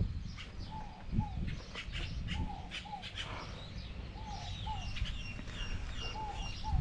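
A bird repeating a short two-note call about every one and a half to two seconds, with higher chirps from other birds in the second half. Faint scattered clicks run underneath.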